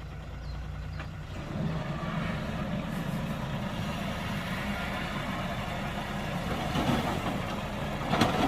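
Heavy earthmoving machine's diesel engine running steadily, getting louder about a second and a half in, with a sharp clank near the end.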